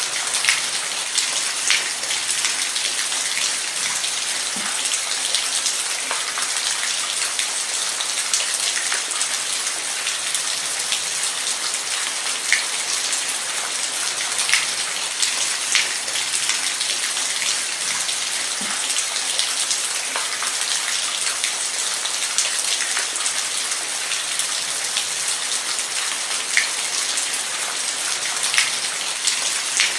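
Steady rain falling, a dense even hiss with scattered sharper drop splashes.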